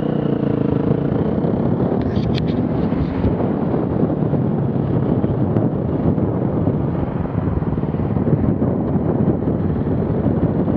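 Off-road vehicle engine running loudly and steadily under load, with a brief metallic clatter about two seconds in.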